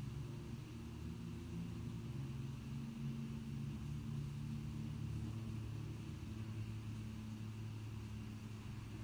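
Low, steady hum of a motor vehicle's engine, with slight drifts in pitch and a small rise in loudness through the middle.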